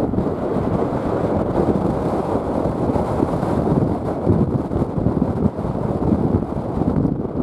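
Strong wind buffeting the microphone: a loud, gusty rumble that rises and falls unevenly throughout.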